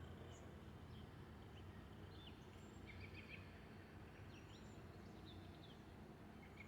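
Faint, scattered songbird chirps and short whistles over a quiet low background hum.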